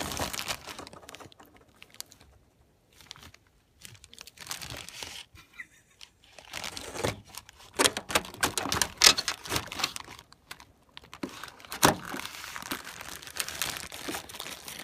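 Plastic bag crinkling and rustling as it is handled, in an irregular run of crackles and scrapes, with a quieter pause a few seconds in.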